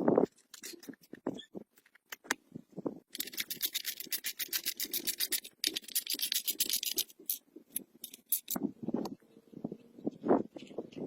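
Rapid, evenly paced scraping strokes by hand, like rubbing or filing a surface, lasting about four seconds in the middle, among scattered knocks and clicks.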